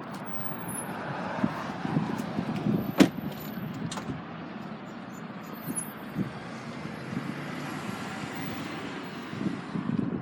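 Road vehicle noise, swelling and fading like passing traffic, with scattered clicks and one sharp knock about three seconds in.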